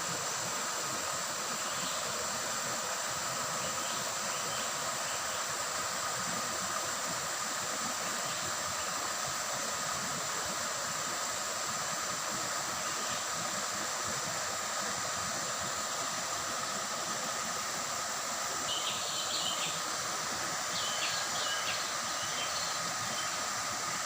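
Shallow river water babbling steadily over stones, with a steady high insect drone behind it. Short bird chirps join in during the last few seconds.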